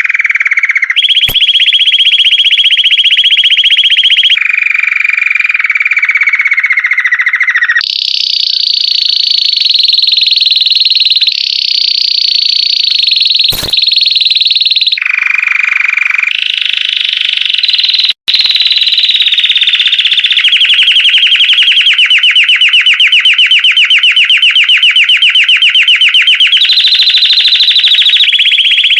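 Domestic canary (Belgian canary) singing a long unbroken song of rolled trills, each held for a few seconds before it jumps to a new pitch, with later phrases turning into a pulsing rattle. A couple of sharp clicks and a momentary break cut into the song.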